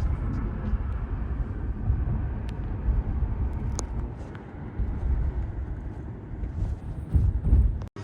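Low, uneven rumbling background noise with a few faint clicks; it cuts off abruptly near the end.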